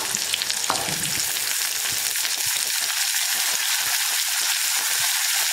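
Wet green turkey berries, dropped with their buttermilk soaking water into hot sesame oil with shallots and garlic, sizzling steadily as they fry.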